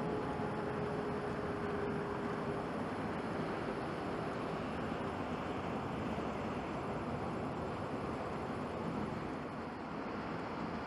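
Jet airliner engine noise: a steady rumbling roar from a Boeing 777-200ER climbing away after take-off, with a faint whine that fades out partway through.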